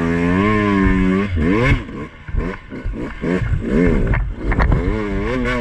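Two-stroke dirt bike engine held at steady revs, then blipped up and down several times as the rider works the throttle along the trail, with a few short clattering knocks in between.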